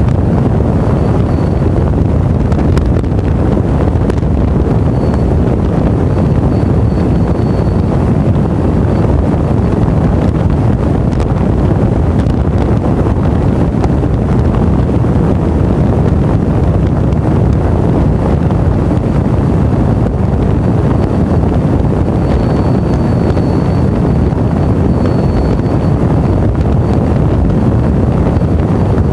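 Steady, loud wind rush buffeting the microphone of a camera on a moving motorcycle, with the bike's running noise blended into it.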